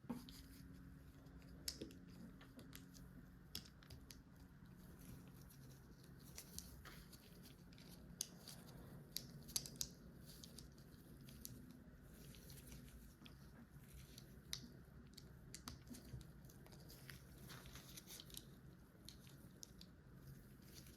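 Faint, scattered plastic clicks and light rattling of LEGO pieces being handled and pressed together, over a low steady hum.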